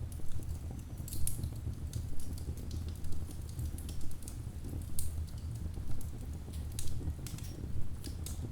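Wood fire crackling in a fireplace: logs burning with a steady low rumble of flame and irregular sharp pops and snaps, several a second.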